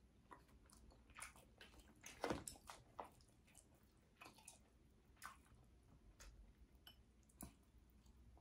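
Quiet close-up eating sounds: soft chewing with scattered small clicks and crackles, the loudest a little over two seconds in.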